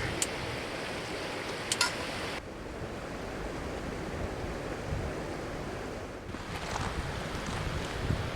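Steady rush of flowing river water, with wind on the microphone. A couple of light clicks come near the start, and the sound changes abruptly about two and a half seconds in.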